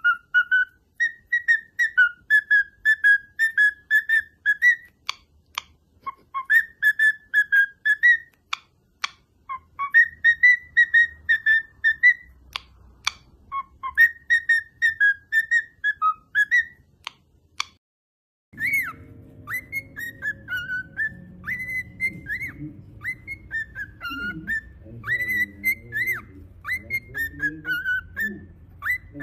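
Pet bird whistling a tune in phrases of short, clear notes, with a few sharp clicks between phrases. About 18 seconds in it breaks off for a moment, then whistled notes go on over a low background murmur.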